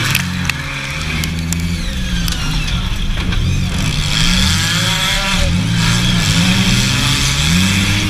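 Several junk race cars' engines running together on the track, each revving up and easing off so that their pitches rise and fall and overlap.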